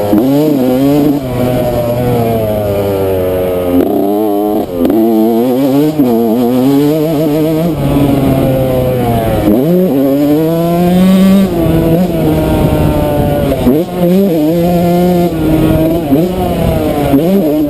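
Yamaha YZ125 two-stroke single-cylinder dirt bike engine revving hard, its pitch repeatedly climbing and then dropping as it is throttled up and shifted or backed off.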